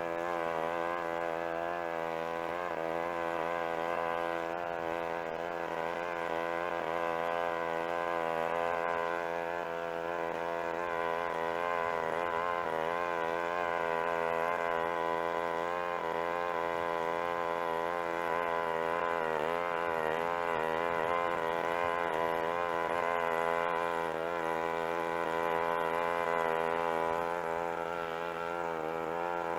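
Lawn mower engine running steadily, its pitch wavering slightly as the load changes.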